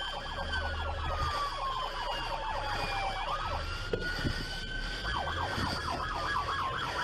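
Police sirens: one in a slow wail that climbs, holds and slides down twice, with a second siren yelping fast beneath it.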